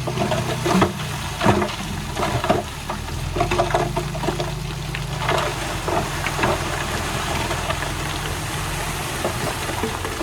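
Diesel engine of heavy earthmoving machinery running steadily, with irregular clattering knocks of soil and stones throughout.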